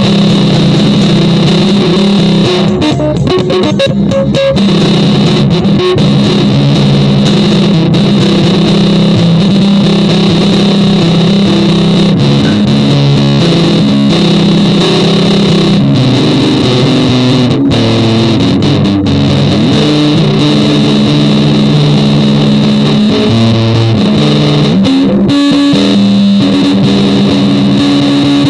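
Music: distorted electric guitar through effects, loud and dense, with held notes that drone and change pitch every few seconds.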